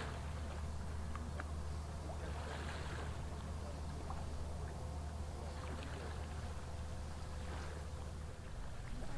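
Low, steady drone of a passing inland ship's diesel engine on the river, with a faint steady higher tone above it; it eases slightly near the end.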